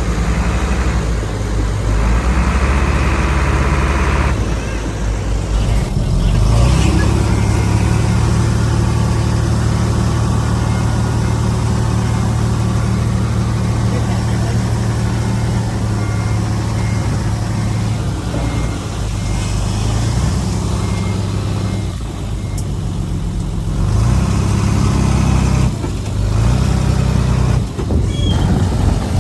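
Heavy diesel engines of earthmoving machines, a dump truck and a mini bulldozer, running under load while soil is unloaded and pushed, the engine note shifting in pitch and level several times.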